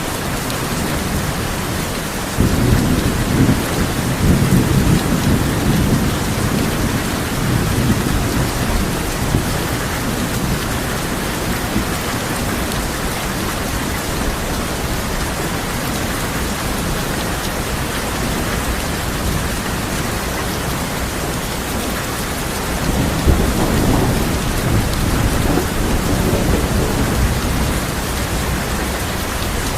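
Steady heavy rain on a tin roof, with two long rolls of thunder. The first rumbles in a couple of seconds in and goes on for several seconds; the second comes near the end.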